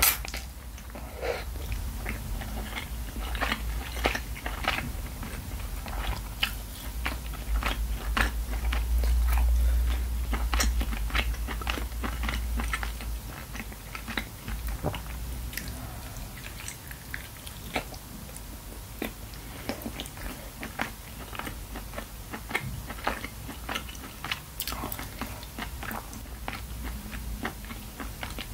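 Close-miked chewing of braised chicken, with many wet mouth clicks and smacks. A low rumble underlies the first half.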